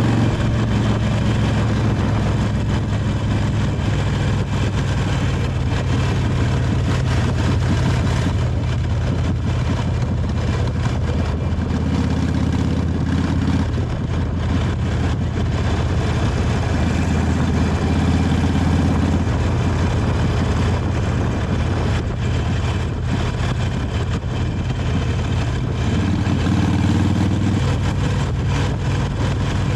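Harley-Davidson Sportster 883 Iron's air-cooled V-twin, on the stock exhaust, running steadily on the road. Its low note shifts briefly three times as the throttle changes.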